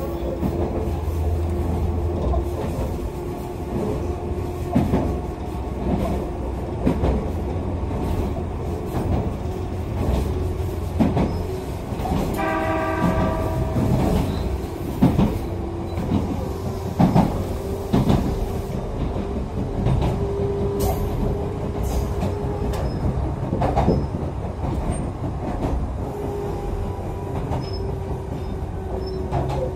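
Echizen Railway electric railcar running along the line, heard from inside the car: a steady rumble and motor hum with repeated clicks of the wheels over rail joints. A brief pitched tone sounds about halfway through.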